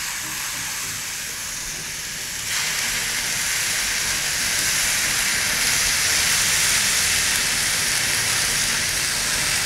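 Rice frying in a hot pan, sizzling and hissing steadily as fish sauce goes in; the sizzle grows louder about two and a half seconds in.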